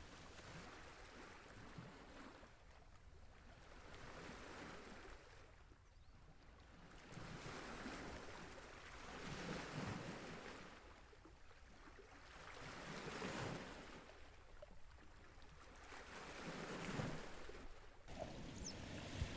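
Small waves washing in at a lake's edge: faint, rising and falling every few seconds.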